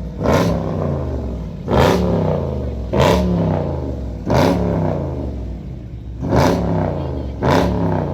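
A car engine revved in repeated throttle blips, six times, each starting sharply and rising then falling in pitch.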